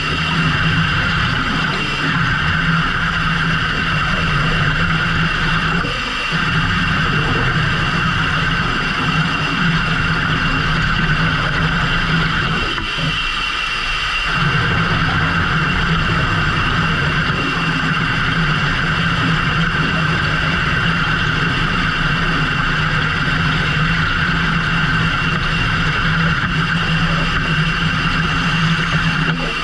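A fishing boat's engine running steadily under load, with brief dips about six seconds in and again around thirteen seconds in.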